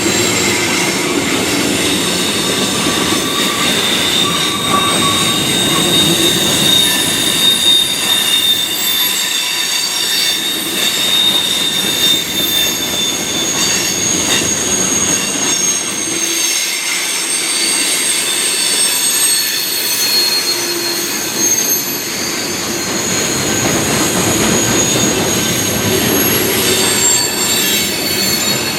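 Freight train cars rolling steadily past, their steel wheel flanges squealing in long, high-pitched tones over the rumble of the wheels on the rails.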